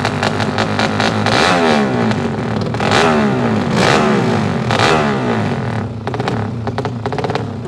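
Several motorcycle engines revving hard, their pitch sweeping up and down repeatedly in overlapping revs between about one and five seconds in, over a busy, rattly running note.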